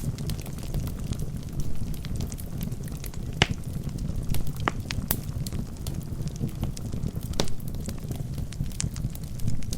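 Wood fire burning in a fireplace: a steady low rumble of flames with scattered sharp crackles and pops from the logs, a few of them louder, about three and a half, five and seven and a half seconds in.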